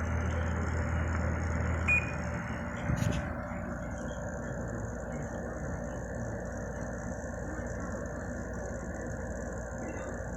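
A 2007 Samsung 10,200 BTU R22 window air conditioner running on high, its fan blowing steadily. A low hum stops about two seconds in, just after a short beep, while the airflow goes on. A brief knock comes about a second later.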